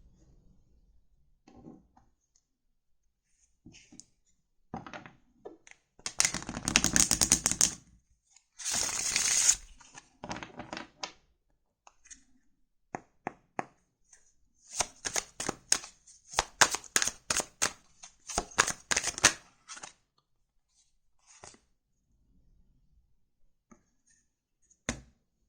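Tarot cards being handled and shuffled: scattered taps and rustles, with a dense burst of riffling about a quarter of the way in and a long run of rapid clicking through the middle.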